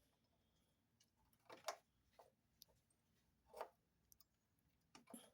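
Faint, scattered metal clicks of a 10 mm ratchet wrench tightening a brake caliper bleeder screw, a few irregular clicks over several seconds.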